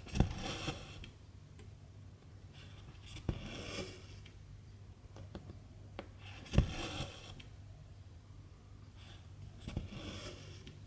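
Cross-stitch needle tapping through 11-count fabric, each time followed by silk thread being drawn through with a short scraping swish. This happens four times, about three seconds apart.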